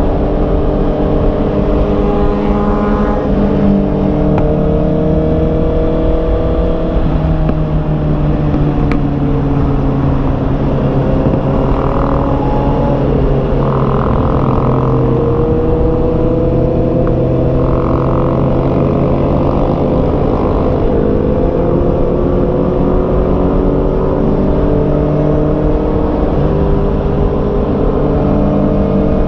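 Honda CB650R's inline-four engine running under way, its pitch rising and falling slowly as it accelerates and eases off, over a steady rush of wind on the microphone.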